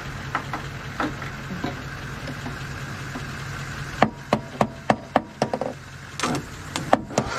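A steady low hum, with a run of sharp knocks starting about four seconds in, several a second. There is a short break before they pick up again near the end.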